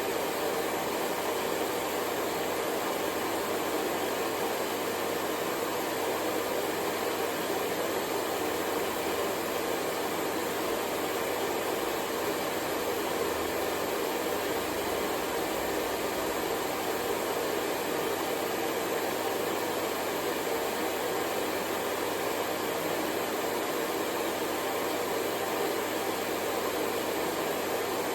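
Hair dryer blowing steadily, a constant even whoosh of air and motor hum, used as white noise for sleep.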